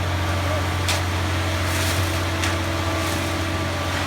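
Construction machinery running steadily with a constant low drone during a ready-mix concrete pour, with a few short scraping clicks about a second in and again near the middle.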